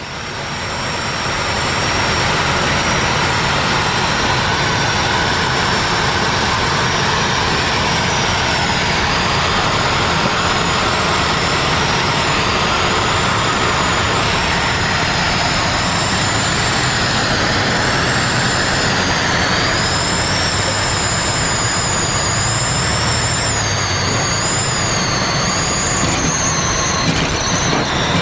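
Aircraft engine running steadily, a loud roar with a high whine over it that wavers up and down in pitch.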